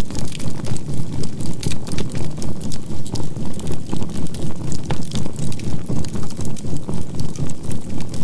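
Campfire crackling, with scattered sharp pops and snaps, over a synthesized low drone that pulses evenly about four times a second. This is a binaural-beat track mixed with a faint steady 528 Hz tone.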